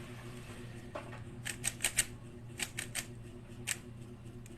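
Rubik's cube being turned by hand: quick runs of sharp plastic clicks as the layers are twisted, over a steady low hum.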